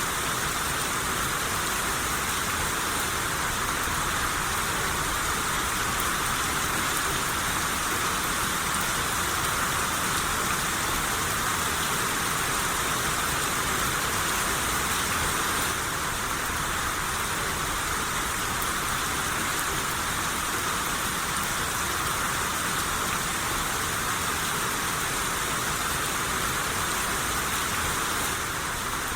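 Steady rain shower, a dense even hiss of rain falling on surfaces.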